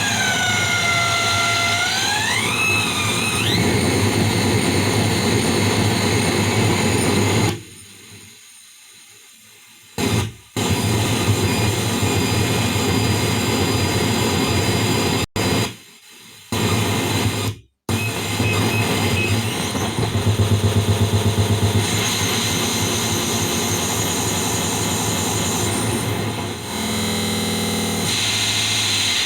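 Harsh electronic noise and feedback from a PT2399 delay-chip noise effect, with whistling tones that slide down and back up near the start. It cuts out abruptly several times, and around twenty seconds in it pulses rapidly.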